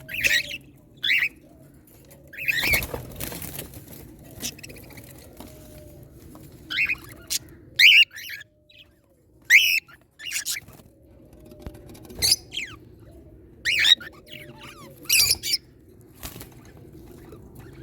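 Pet birds giving short, sharp chirping calls every second or two, with a brief rustling burst of noise about three seconds in, over a low steady background hum.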